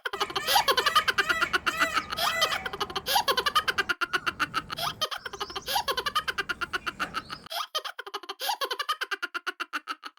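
A baby laughing in quick, repeated giggles.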